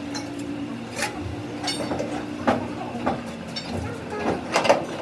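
Metal knocks and clinks from hand work on metal parts, about seven irregular strikes, the loudest near the end, over a steady machine hum.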